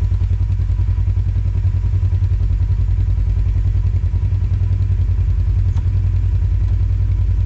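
Off-road vehicle's engine running steadily at low revs while crawling, a deep even drone with a fast regular pulse.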